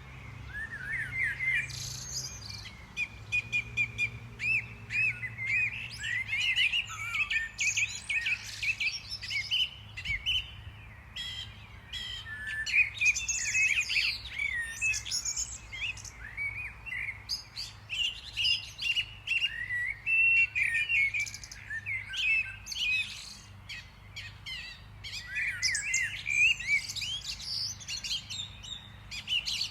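Small songbirds chirping and twittering, many short quick calls and sweeping notes overlapping without pause, over a faint steady low rumble.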